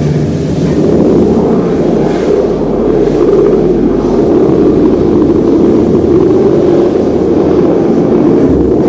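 Lamborghini engine sound as a loud, steady roar with no clear pitch.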